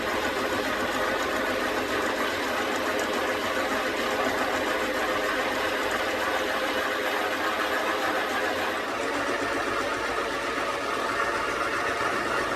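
A machine running steadily: a dense mechanical hum with several held tones that shifts slightly about nine seconds in.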